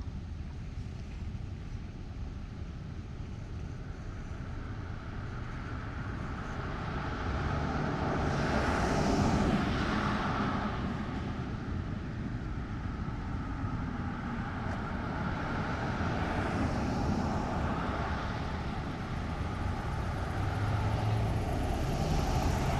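Outdoor traffic noise: a steady low rumble with vehicles passing, swelling up and fading away three times, loudest about nine seconds in.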